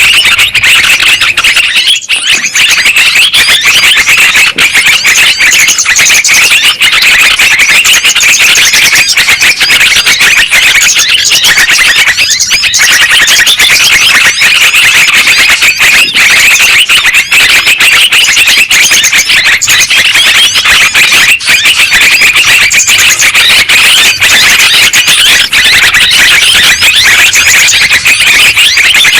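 Dense, unbroken chorus of yellow-vented bulbul (trucukan) calls, many bubbling phrases overlapping one another, played loud as a bird-luring track.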